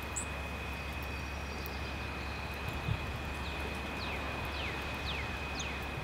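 A songbird whistles a short series of notes, each sliding down in pitch, about half a second apart, starting a little past halfway. Behind it is a steady outdoor background of low rumble and a faint, even high tone.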